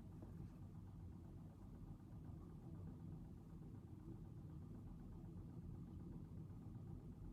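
Quiet room tone: a faint, steady low rumble with no distinct events.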